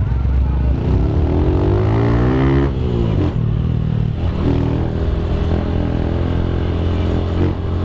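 Motorcycle engine revving, rising in pitch for about two seconds and then dropping back, followed by steady running.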